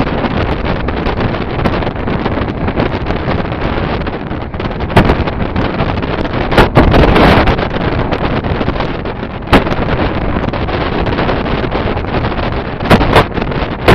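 Passenger train running on the rails, heard from on board with heavy wind buffeting the microphone. Several sharp clacks come from the wheels on the track a few seconds apart: a pair about five to seven seconds in, one near ten seconds, and a pair near the end.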